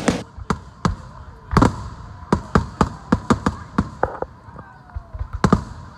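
Fireworks going off: a rapid, irregular series of more than a dozen sharp bangs, some coming in quick pairs.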